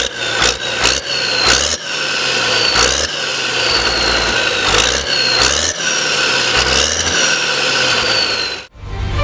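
Harvest machinery running steadily, most likely a combine harvester at work, with a strong low engine hum and a constant high-pitched whine from its drives. A few sharp knocks come near the start, and some slowly falling high tones repeat every second or so. The sound cuts off abruptly near the end.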